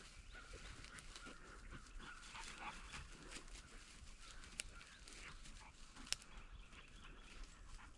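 Faint sounds of a pointer bird dog working through cover: scattered rustling, with two sharp clicks about halfway through.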